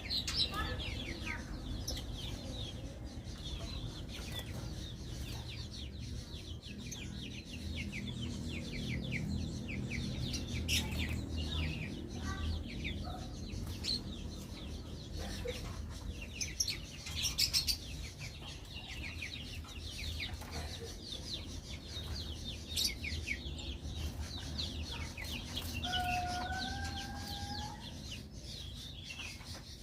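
Small birds chirping in quick, short notes over and over, with chickens clucking in the background. Near the end comes one longer call that rises slowly in pitch.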